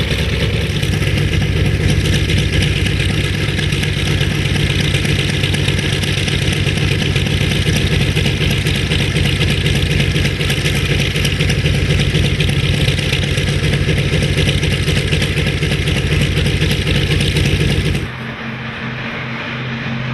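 Piston-engined warbird aircraft running steadily, a low engine hum under a heavy rushing noise. About eighteen seconds in it cuts abruptly to a quieter, smoother engine drone.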